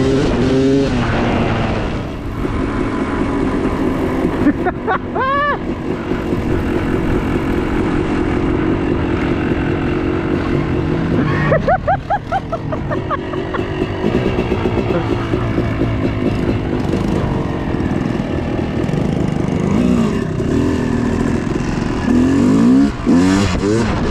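Yamaha YZ250 two-stroke dirt bike engine running under load on a trail, with the throttle blipped up and down; the revs rise sharply about five seconds in, again about twelve seconds in, and once more near the end.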